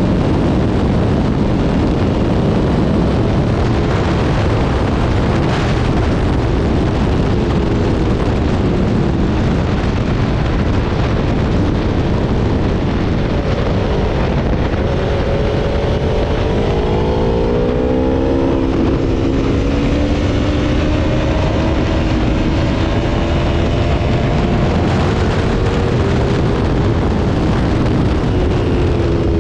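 Aprilia Tuono V4 motorcycle's V4 engine at speed on track, its note climbing and falling several times as the rider accelerates and backs off, over a loud, steady rush of noise.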